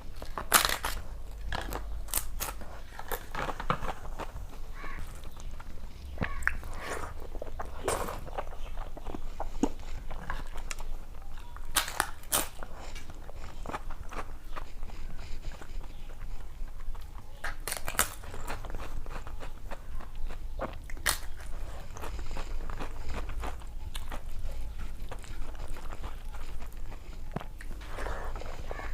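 A person chewing and biting crisp food close to the microphone, with sharp crunches every few seconds between softer chewing.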